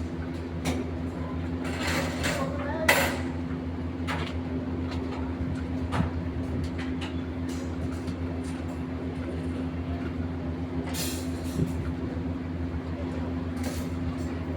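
Steady hum of an engine or motor running at constant speed, with scattered short knocks and clatter over it.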